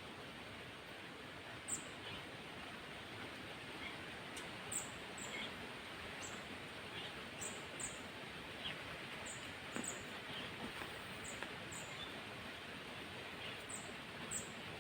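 Faint, high, thin bird chirps, short single and doubled notes coming irregularly every second or so, over a steady outdoor hiss.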